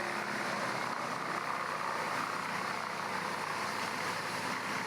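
Steady mechanical running noise of a large wood chipper, an engine and machinery droning evenly with no distinct strikes.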